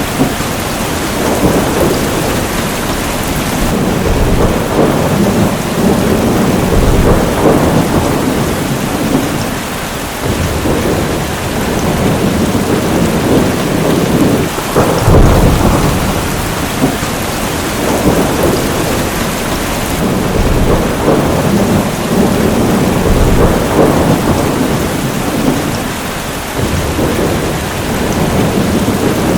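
Heavy rain falling steadily in a thunderstorm, with thunder rolling in low swells; the deepest rumble of thunder comes about halfway through.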